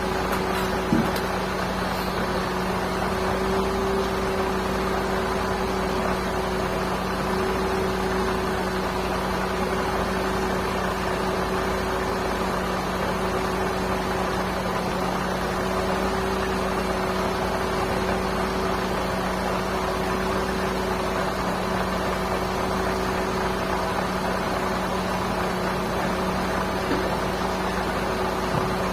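Steady mechanical hum at a constant pitch, unchanging throughout.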